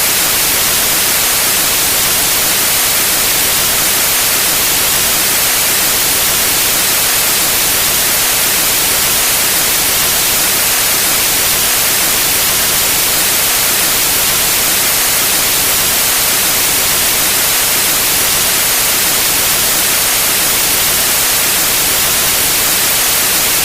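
Steady white noise: an even, unbroken hiss across all pitches, brightest in the treble.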